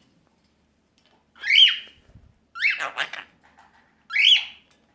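Quaker parrot (monk parakeet) giving three short chirping calls, each a quick rise and fall in pitch, the middle one rougher and more squawk-like.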